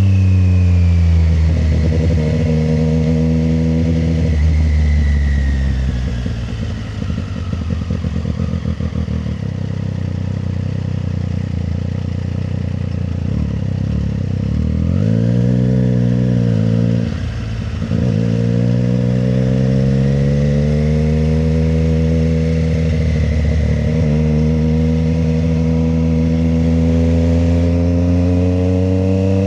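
Triumph Street Triple 765 RS inline three-cylinder engine under way. The engine note falls as the bike slows over the first few seconds, runs low for a while, rises and falls quickly about halfway through, then climbs steadily as the bike accelerates.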